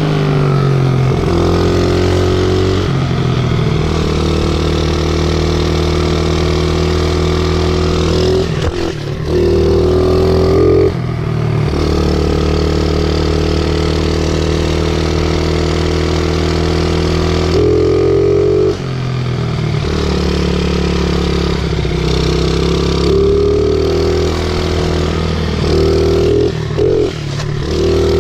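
Small 50cc pit bike engine running under way, close to the rider, its pitch holding steady for stretches and stepping up and down as the throttle is opened and closed, with brief drops several times.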